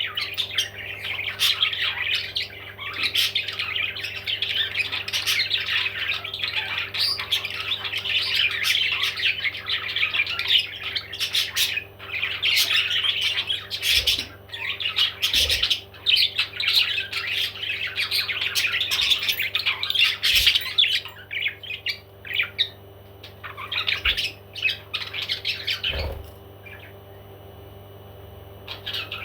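Parrots squawking and chattering in a dense, continuous stream of shrill calls, thinning to scattered calls about 21 seconds in and quieter still near the end. A steady low hum runs underneath.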